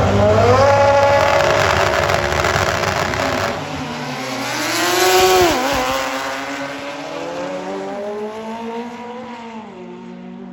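Drag motorcycle engines at full throttle down the strip: the pitch climbs hard at the start and holds high, then drops sharply about five seconds in as a bike passes close. The sound then fades away into the distance.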